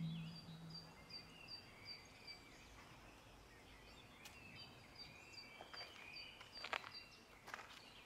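Faint outdoor ambience: a bird repeating a short high chirp about two or three times a second, with a few other soft bird notes. A few footsteps come near the end.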